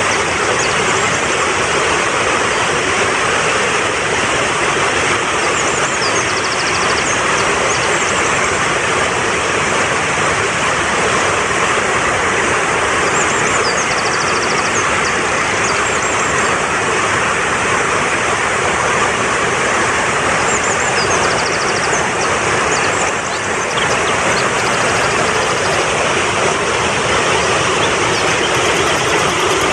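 Mountain stream rushing steadily over rocks. A small bird's short high chirping trills come through it several times.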